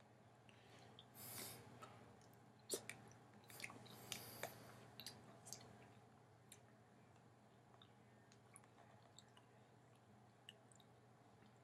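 Faint eating sounds of canned peaches being chewed: soft wet chewing with a few small clicks, mostly between about one and six seconds in, then near silence.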